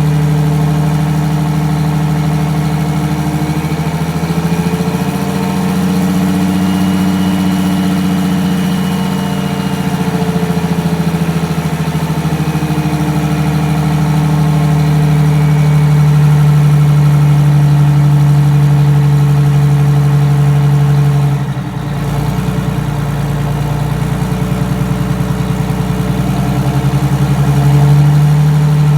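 Detroit Diesel 6V92TA two-stroke turbocharged V6 diesel idling just after a cold start, its speed shifting slightly now and then, with a brief dip about 22 seconds in.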